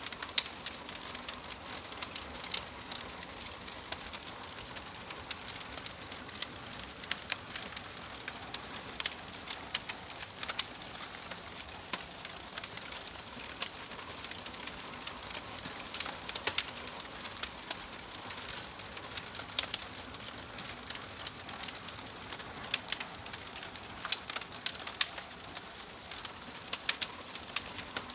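Wood fire in a fireplace crackling, with irregular sharp pops and snaps over a steady soft hiss.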